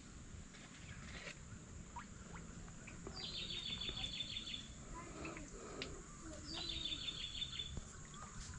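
A bird repeating a short, high trilled call twice, each a rapid run of notes about a second and a half long, over quiet riverside ambience.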